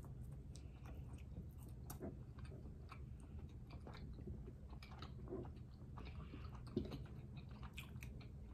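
A person biting into and chewing fresh peach slices: faint mouth sounds with many small scattered clicks, and one sharper click near the end.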